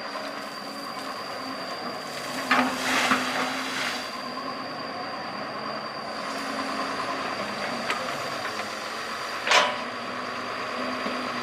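Doosan 140 excavator's diesel engine running steadily, with a high steady whine over it. A few short rattling scrapes come about a quarter of the way in, and one louder clatter comes near the end.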